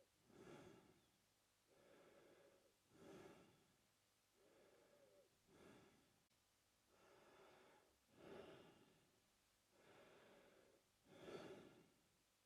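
A man breathing slowly and steadily through his mouth, quietly, with alternating in and out breaths in an even rhythm of about one full breath every two and a half seconds.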